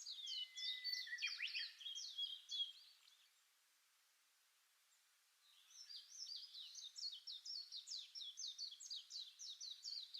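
Songbirds singing: fast runs of high, sharp chirps, several a second, with a pause of about two seconds in the middle before the chirping resumes.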